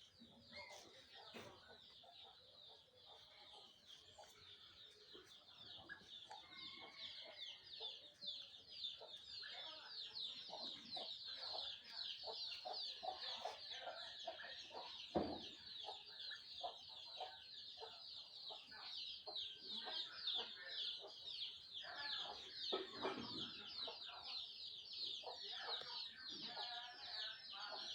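A dense chorus of many birds chirping rapidly and continuously, with scattered lower calls among them, growing louder over the first dozen seconds.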